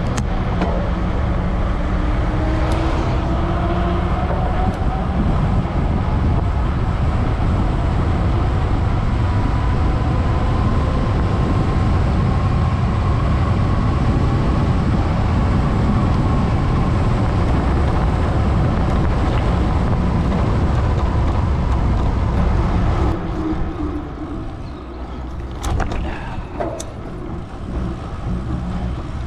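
Knobby Schwalbe Racing Ralph bicycle tires humming on pavement at speed, with heavy wind rush over the microphone, easing off about three-quarters of the way through as the bike slows.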